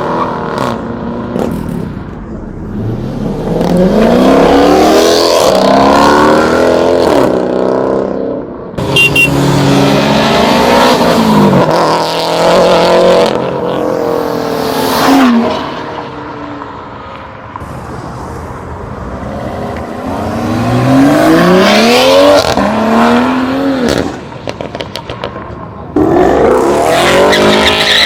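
Several cars pulling out one after another and accelerating hard, their engines revving up through the gears in rising sweeps, each dropping back at a shift, with the cars passing close by.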